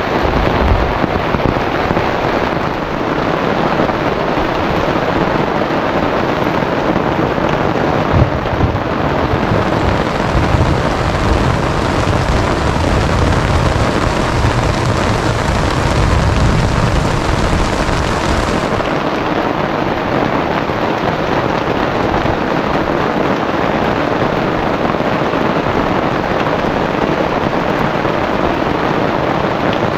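Heavy rain pouring down steadily in a storm, with gusting wind. A deeper rumble swells in the middle and then fades.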